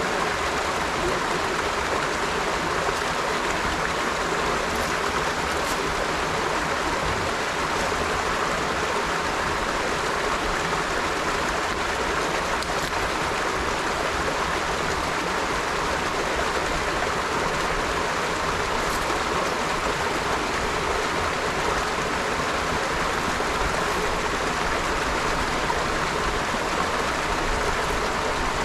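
River water flowing steadily over rocks, a continuous rushing and babbling with no breaks.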